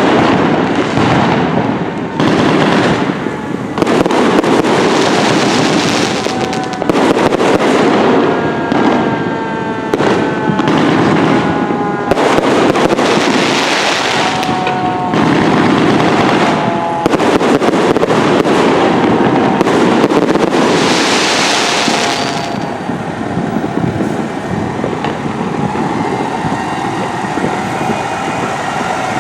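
Fire engine responding code 3: a siren winding up and down, with repeated loud air-horn blasts of a second or two each. Many sharp pops are heard throughout.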